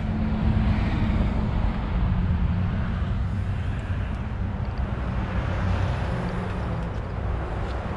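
A motor vehicle engine running steadily at low revs, heard as an even low rumble.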